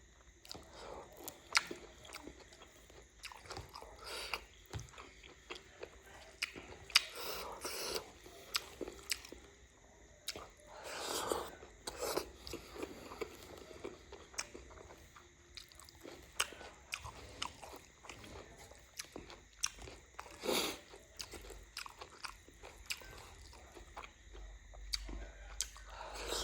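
A person chewing and biting food close to the microphone, mukbang-style, with irregular wet mouth sounds and occasional sharp clicks.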